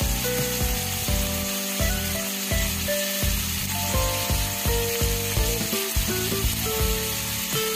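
Chicken livers, green beans and onion sizzling in a hot wok, a steady frying hiss, under background music with a melody and a regular beat.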